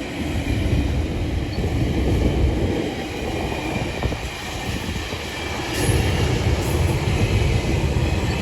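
GO Transit commuter train passing close by, its wheels rumbling steadily over the rails, with a brief faint high squeal about six seconds in.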